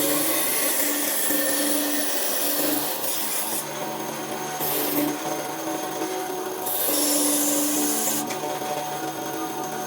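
Wood being worked by a machine tool, a rasping, scraping sound that swells and fades in several passes over a steady motor hum.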